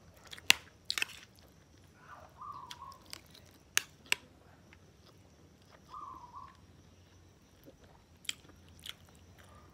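Close-up eating sounds: chewing rice and crisp dried fish, with a metal spoon clicking sharply against the plate several times. A bird gives a short call twice, about two seconds in and again about six seconds in.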